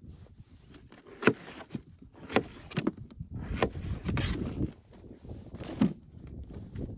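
Five or so sharp knocks, spaced irregularly, with a stretch of scraping and rustling between them about four seconds in.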